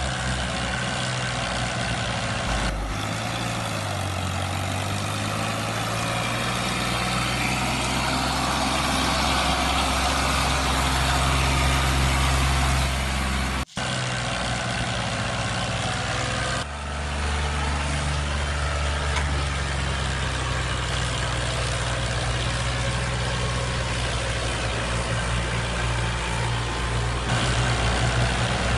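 Steady tractor-style engine running at a low, even note. Its pitch shifts a little a few times, and there is a momentary break about fourteen seconds in.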